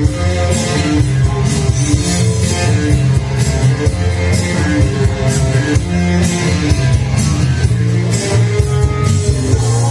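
Loud, steady rock-style band music: guitar over a heavy bass line and a drum kit, with no singing.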